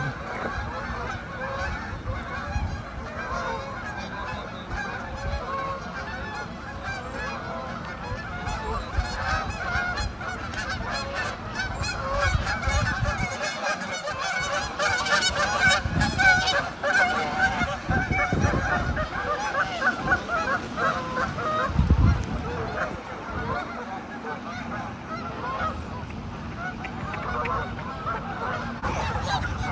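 A large flock of geese honking, many calls overlapping in a continuous chorus that grows louder toward the middle, over a low rumble.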